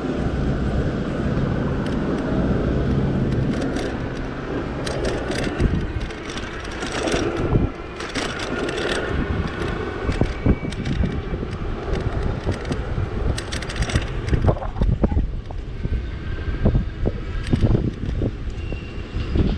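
E-bike riding on city streets: road and wind noise with many sharp rattles and clicks from the bike going over bumps, and a steady low hum in the first few seconds.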